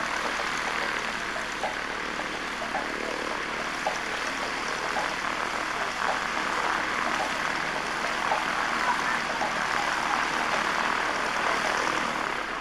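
Propeller aircraft engine running in flight, a steady broad drone that grows a little louder over the second half.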